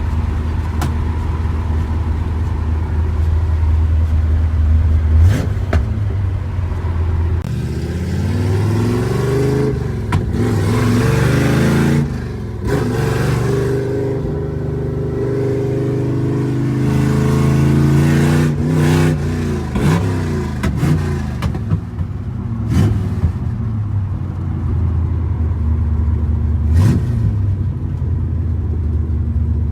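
A 327 small-block Chevy V8 with a big cam pulls hard through the gears of a four-speed manual. The engine note climbs, drops sharply at each upshift (twice), climbs again, and then settles into a steady cruise near the end.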